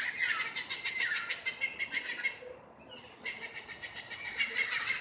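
A flock of parrots flying over, giving a dense, rapid chorus of harsh calls that almost stops about two and a half seconds in and starts again a moment later.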